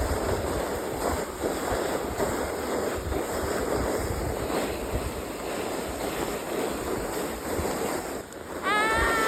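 A plastic snow sled scraping and hissing over snow as it is pulled along, mixed with wind buffeting the microphone. Near the end a child's high voice calls out briefly.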